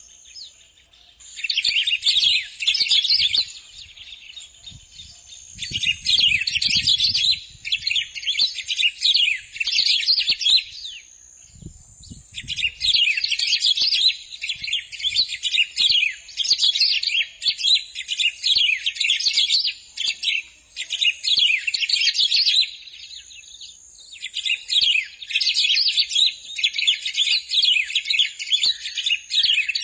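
Bico-de-pimenta (black-throated grosbeak, Saltator fuliginosus) singing: loud, high phrases a second or two long, repeated with short pauses.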